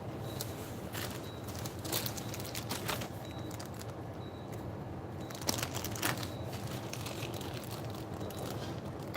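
Scattered light clicks and knocks of food preparation by hand, over a steady low background hum.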